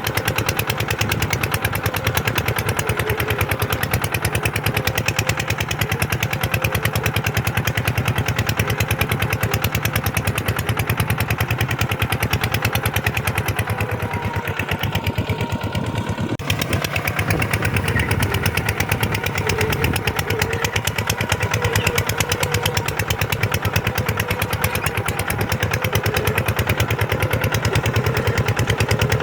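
Kubota tractor's diesel engine running steadily with a fast, even beat, with a brief shift in tone about halfway through and a single click.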